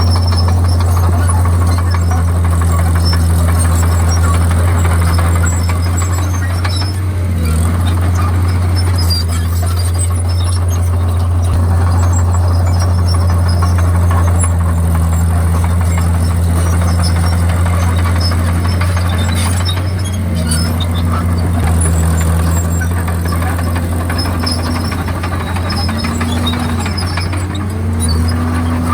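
Komatsu D51PX bulldozer's diesel engine running steadily at working speed, its pitch dipping briefly and recovering a few times as the load changes.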